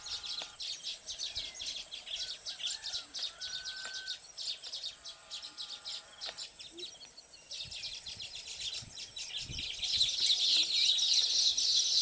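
Baya weavers chattering at their nesting colony: a dense stream of rapid, high chirps that grows louder about ten seconds in.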